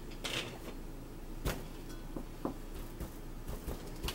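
Close-up mouth sounds of a person chewing a sandwich: a short breathy hiss near the start, then scattered wet clicks and smacks, about six, the loudest about a second and a half in.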